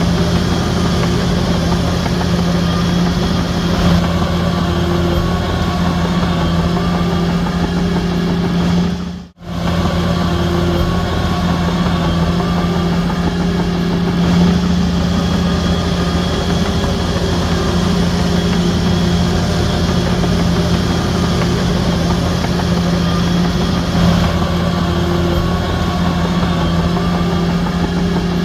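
Diesel engine of a Shantui DH17C3 bulldozer running steadily at a constant pitch. It cuts out briefly about nine seconds in.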